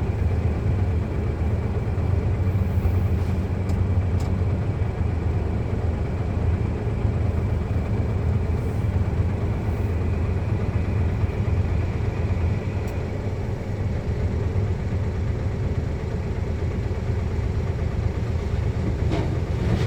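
Heavy diesel engine running steadily, with a faint high whine above it.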